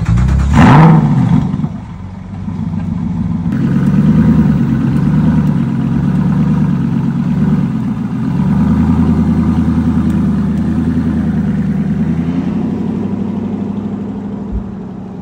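Aston Martin Vantage Roadster engine starting with a loud flare of revs in the first second or so, then idling.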